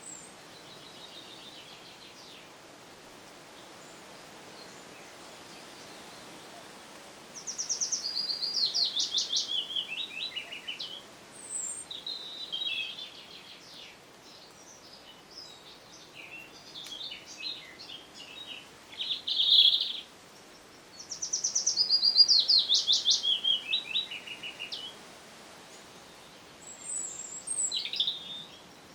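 A songbird singing two songs about thirteen seconds apart, each a fast run of notes stepping down in pitch and ending in a flourish, with scattered short chirps between them and a brief call near the end, over a steady background hiss.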